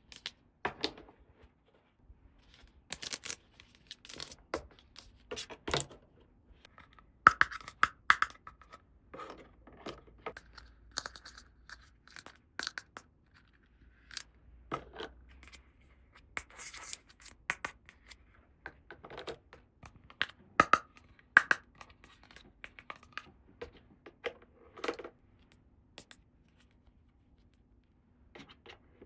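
Hands unboxing a plastic toy playset: packaging tearing and scraping, with irregular clicks and taps of small plastic pieces and short pauses between them.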